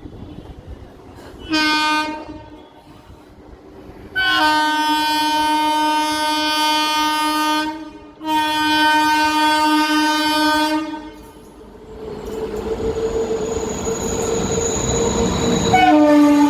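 Indian Railways locomotive horn: one short blast, then two long blasts. These are followed by the rising rush of the train running into a curve, with steady high-pitched wheel squeal, and another horn blast starts near the end.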